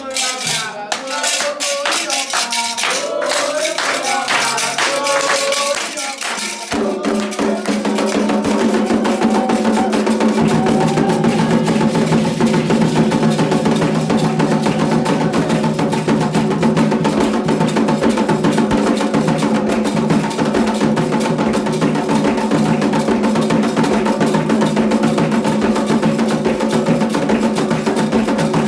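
Candomblé ceremonial music: singing over light hand percussion, then about seven seconds in, dense drumming and percussion with steady group chanting come in abruptly and carry on.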